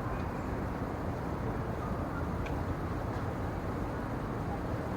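Steady low rumbling ambience with no breaks, with a couple of faint short ticks near the middle.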